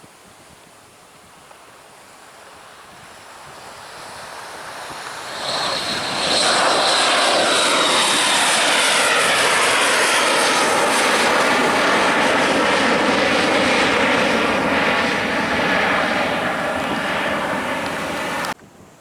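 Jet airliner passing low overhead. Its engine noise swells from about four seconds in to a loud, steady rush, with a high whine that slides slowly down in pitch. The noise cuts off abruptly near the end.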